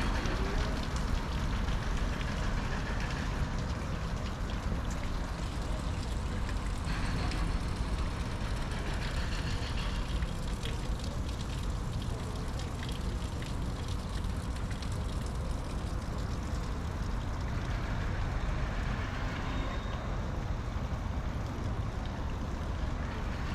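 Outdoor ambience picked up on a walk: a steady low rumble with faint distant voices.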